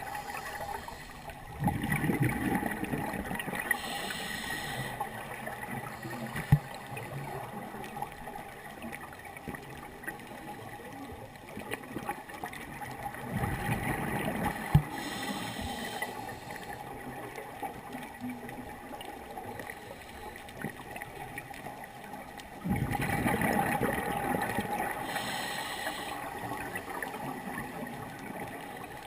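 Scuba diver breathing through a regulator underwater: three slow breaths about ten seconds apart, each a surge of rushing, gurgling exhaust bubbles with a short hiss inside it.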